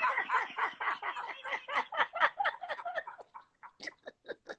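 A man laughing hard in quick repeated ha-ha pulses that die away about three seconds in, leaving a few short chuckles.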